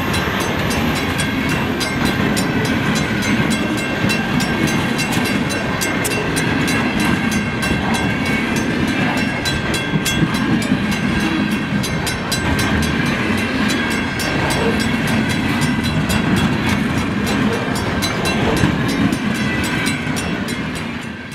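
Freight cars of a passing train rolling by close up: steady rumble and rattle of steel wheels on the rails with repeated clicking over the rail joints, under a steady ringing from the grade-crossing bell.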